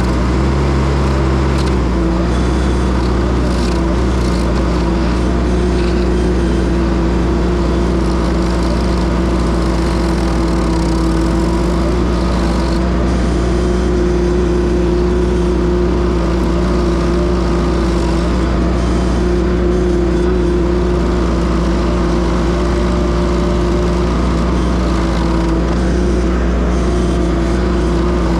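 Case TL100 mini track loader's engine running steadily at high throttle, with an even pitch, powering a stump grinder attachment.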